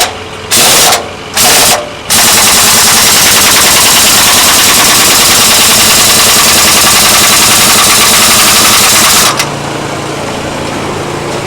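A power tool hammering rapidly, used on the crusher's metal teeth: three short bursts, then one long run of about seven seconds that stops abruptly.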